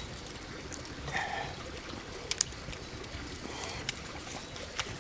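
A wooden stick tapping on dry earth: a few sharp taps, two close together in the middle and one near the end, over a steady rushing hiss.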